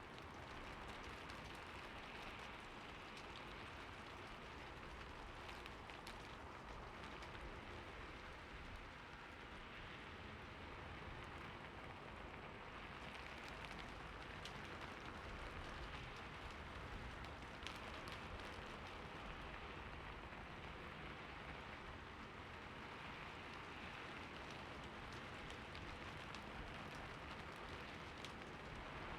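Heavy rain falling steadily, an even hiss with now and then a single sharper drop tick.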